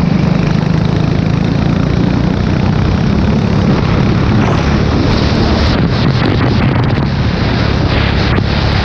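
Formula 4 race car engine running steadily at speed, heard onboard with heavy wind noise on the microphone. A few brief dips break the sound in the second half.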